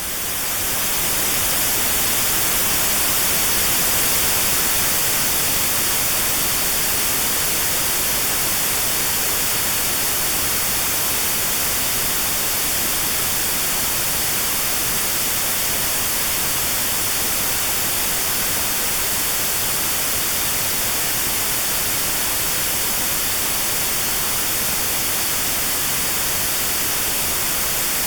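Notch-filtered white noise: a steady, even hiss with a narrow band around 4 kHz cut out, used as notched sound therapy for 4 kHz tinnitus. It swells up over the first second or two, then holds level.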